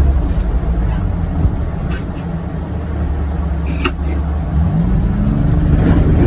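John Deere Gator UVX 835M utility vehicle's engine running steadily, then rising in pitch about four and a half seconds in as it speeds up. A short click shortly before.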